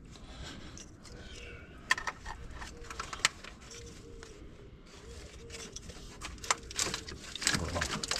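Scattered sharp clicks, knocks and small rattles as plastic wiring-harness connectors are handled and unclipped in a car's engine bay.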